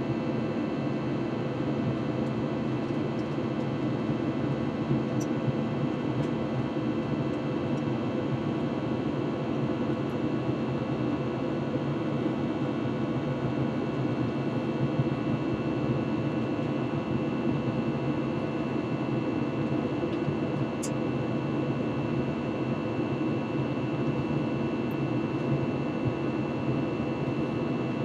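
Steady cabin noise of an Airbus A321 in flight, heard from inside the cabin: a constant drone of the engines and rushing air, with faint steady tones above it. A faint high tick sounds about twenty seconds in.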